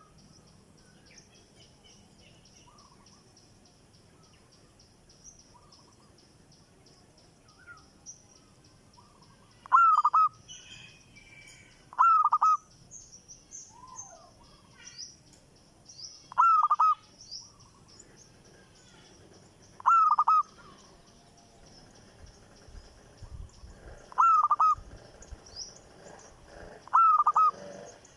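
A newly acquired caged bird calling: a short, loud call repeated six times, every two to four seconds. Fainter high-pitched chirping runs steadily underneath.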